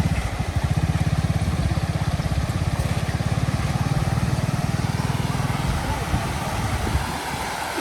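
A small engine running steadily with rapid low firing pulses, easing off near the end.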